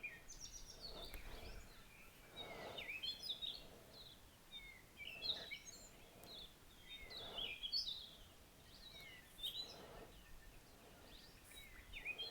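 Small birds chirping and twittering in the background: short, quick rising and falling calls, faint and irregular.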